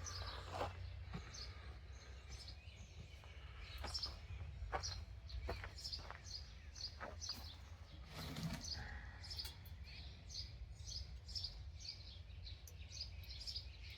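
Small birds chirping, short high chirps repeating about two or three a second in the second half, over a low steady background rumble, with a few faint knocks early on.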